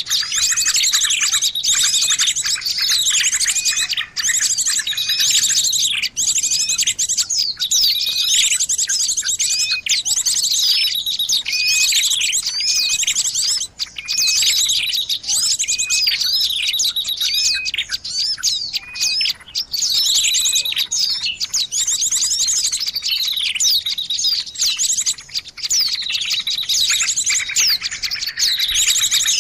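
Recorded chorus of many small songbirds chirping and trilling at once, with fast trills and short repeated down-slurred notes layered without a break. This is a mixed bird-lure track, made to call small birds in.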